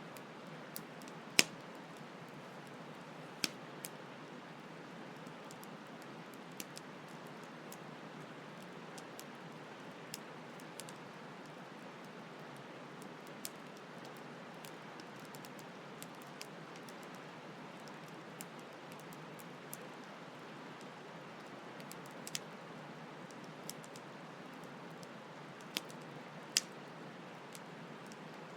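Campfire crackling, with irregular sharp pops and snaps, the loudest about a second and a half in and several more near the end, over the steady rush of a flowing stream.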